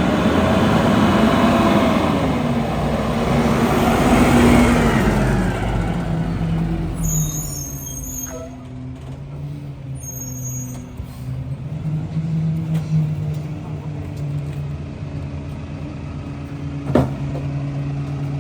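Mack MRU rear-loader garbage truck's diesel engine revving, its pitch rising and falling for the first several seconds, then settling to a steady idle. A sharp metal clank near the end.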